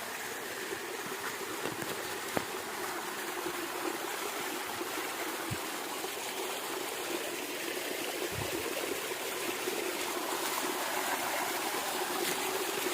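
Shallow stream water running and trickling steadily over a wide, flat rock slab at a small waterfall that is low on water, with one small click a couple of seconds in.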